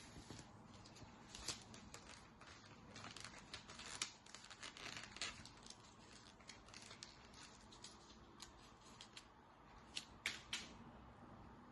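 A sheet of paper being handled and folded, crinkling and creasing in a run of faint, quick crackles. The crackles are thickest in the first half, with a few sharper ones about ten seconds in.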